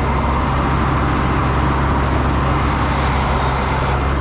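Heavy diesel engine running steadily at the concrete pour, a constant low drone with a noisy rush over it.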